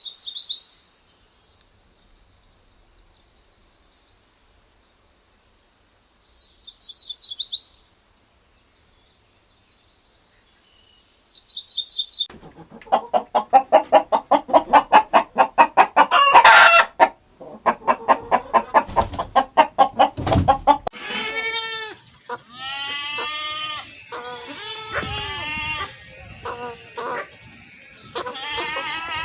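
Several animal calls one after another: three short, very high-pitched chirping bursts with quiet between them, then a long run of rapid pulsed calls, then a string of pitched calls that bend downward in pitch.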